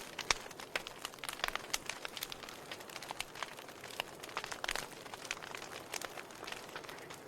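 Wood fire crackling in a fireplace: irregular sharp snaps and pops over a soft steady hiss.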